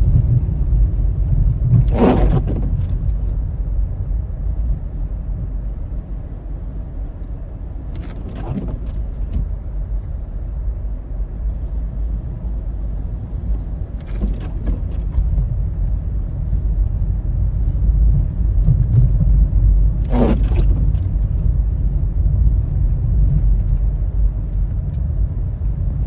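Car driving on a snowy road, heard from inside the cabin: a steady low rumble of engine and tyres. A short sound cuts in four times, about every six seconds.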